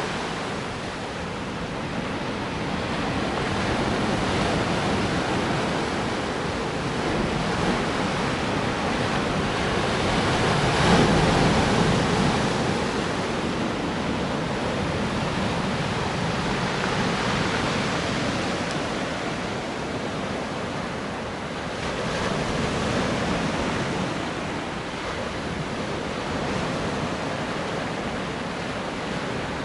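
Sea surf: waves breaking and washing on the shore in slow swells, with one louder wave about eleven seconds in.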